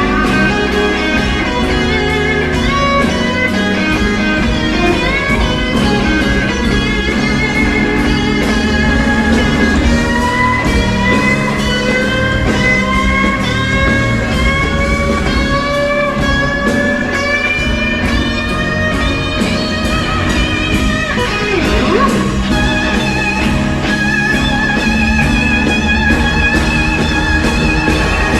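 Electric blues guitar soloing, with bent notes and vibrato, over bass and drums.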